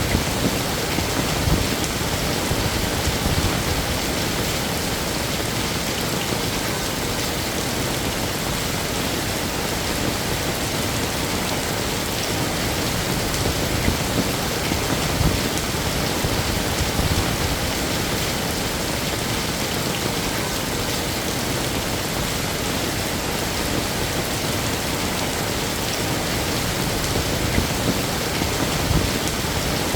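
Steady heavy rain falling on hard surfaces, a dense even hiss with scattered louder drop spatters.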